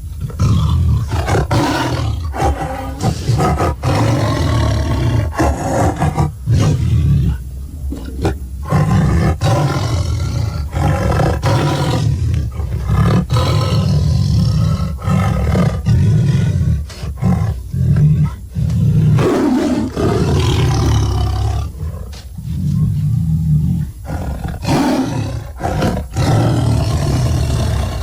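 Tyrannosaurus rex roar sound effects: long, deep roars one after another, each a few seconds long, with short breaks between them over a heavy low rumble.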